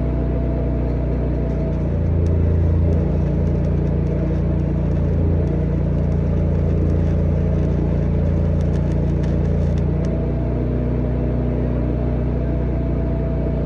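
An engine running steadily. Its note shifts lower and heavier from about two seconds in until about ten seconds in, then settles back, with faint crackling during that span.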